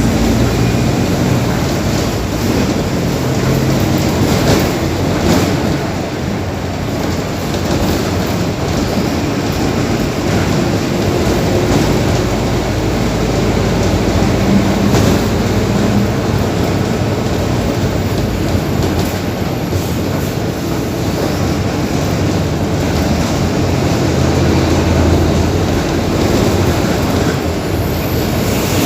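Mercedes-Benz OF-1721 BlueTec 5 bus's four-cylinder diesel engine running under way, a steady rumble whose pitch rises and falls with engine speed, over road noise.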